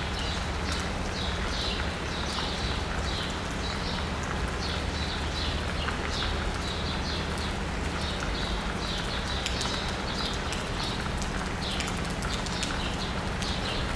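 Steady rain pattering on asphalt and rooftops, with scattered drops ticking. Birds chirp over it in quick repeated short calls, and a steady low hum of city traffic engines runs underneath.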